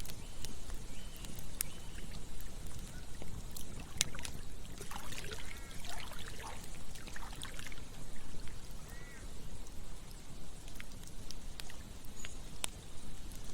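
Campfire crackling with scattered sharp pops over the steady rush of a flowing stream. A few short animal calls come through around the middle.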